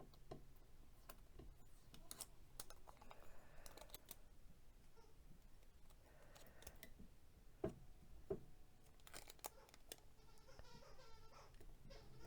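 Faint handling sounds of heat-safe tape being laid and pressed down onto a mug: scattered soft clicks and rustles, with two sharper clicks about two-thirds of the way in.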